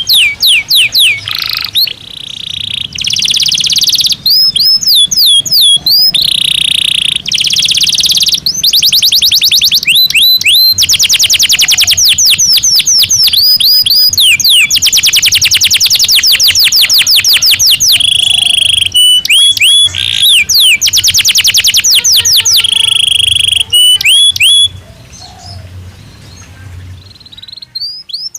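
Domestic canary singing loudly: fast rolling trills alternating with runs of repeated sweeping whistled notes. The song breaks off about three-quarters of the way through and starts again right at the end.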